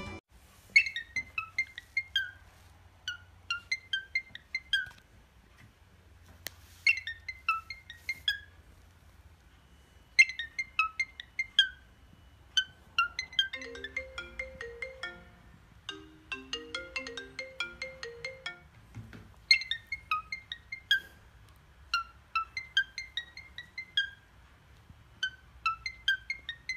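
A ringtone-style melody of short, clear high notes. They come in quick phrases about two seconds long that repeat with short gaps, with a few lower notes underneath in the middle.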